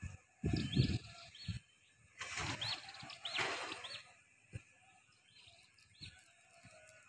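A small bird chirping, short rising-and-falling notes repeated about eight times with gaps between them. Intermittent bursts of low rumbling noise come and go, the loudest from about two to four seconds in.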